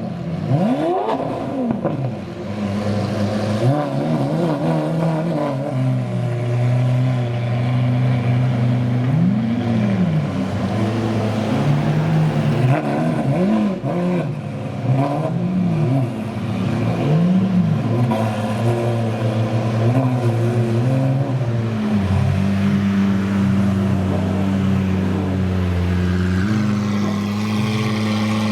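Supercar engines idling with repeated short throttle blips, each rev rising and falling in pitch, for the first two-thirds; the engines then settle into a steady idle near the end.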